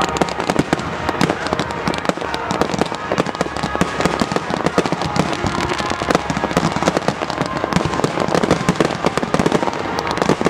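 Aerial fireworks display at full pace: an unbroken barrage of launches and shell bursts, many bangs and pops a second with no let-up.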